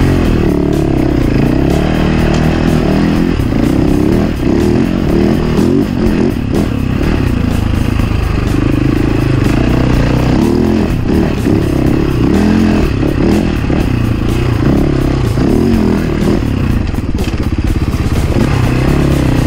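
Enduro motorcycle engine running hard on a trail ride. Its revs rise and fall continually with the throttle.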